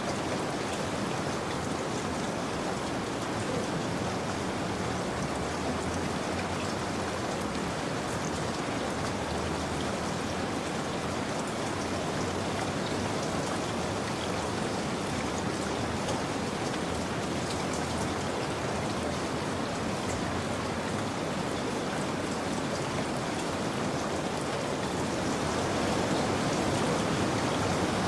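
Steady rain falling, an even hiss with scattered drops pattering on a surface; it grows a little louder near the end.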